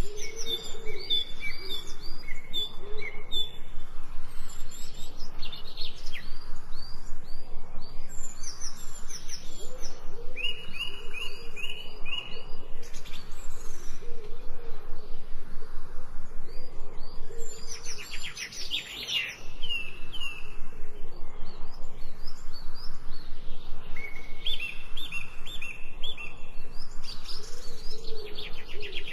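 Wild birds chirping in repeated runs of short, quick notes every few seconds, over a steady background hiss.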